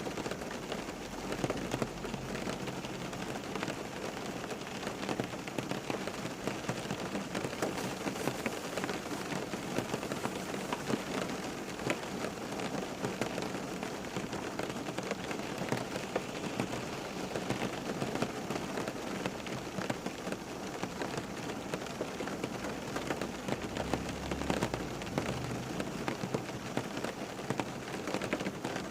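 Steady rain falling on a hard surface, a dense even patter of many drops.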